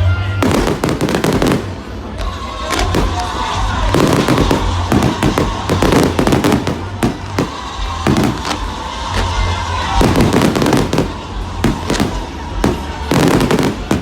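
Fireworks display: many firework shells going off in quick, uneven succession, loud bangs and crackling bursts one after another.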